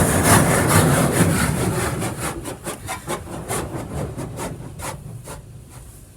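Car wash side blasters spraying high-pressure water against the side of the car in a rapid, pulsing hiss. It fades away over the last few seconds as the car moves past.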